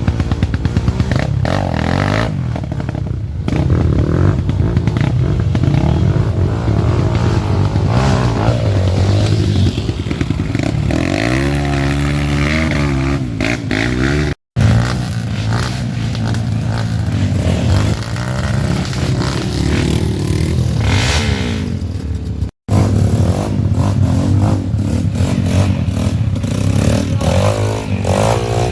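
Off-road trail motorcycle engines revving hard, their pitch repeatedly rising and falling as the bikes are throttled, with some clattering. The sound breaks off for an instant twice, about halfway through and again about three-quarters of the way through.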